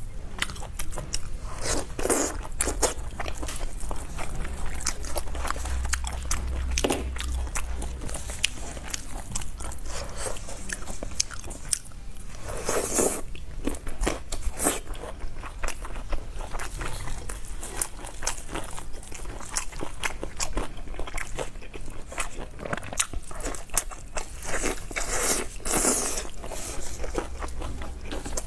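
Close-miked biting and chewing of sauce-covered braised beef rib meat: a dense run of small clicking mouth sounds, with louder bursts about halfway through and again near the end.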